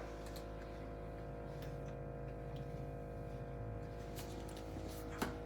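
Faint ticks and light taps, like utensils knocking on cookware, over a steady hum of held tones, with two sharper clicks near the end.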